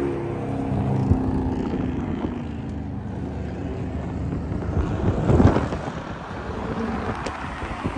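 Car engines running, a steady low drone that settles just after a rev, with a brief louder swell about five and a half seconds in.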